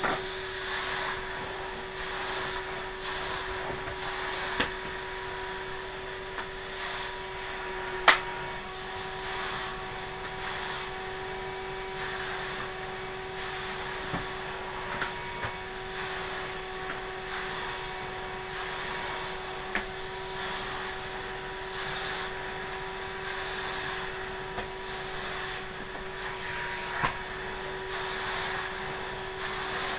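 Numatic Hetty canister vacuum cleaner running steadily on its high setting: a constant motor hum with a steady whine over the airflow noise. A few sharp knocks come through, the loudest about eight seconds in.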